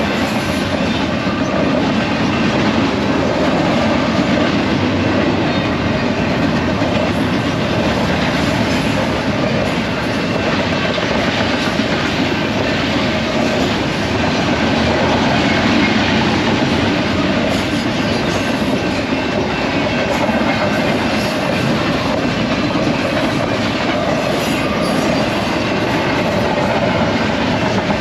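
BNSF freight train's cars rolling steadily past, wheels clattering over the rails without letup.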